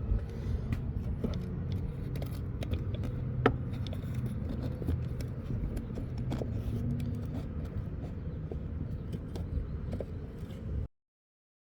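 A car running with a steady low rumble, with scattered light clicks and rattles over it; it cuts off suddenly near the end.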